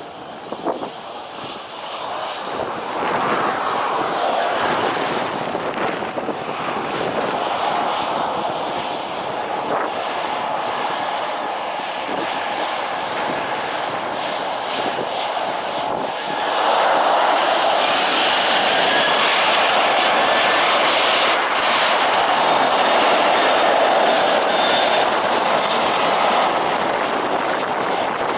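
Jet airliner engines during a landing: the noise builds over the first few seconds, then jumps louder about sixteen seconds in and stays loud.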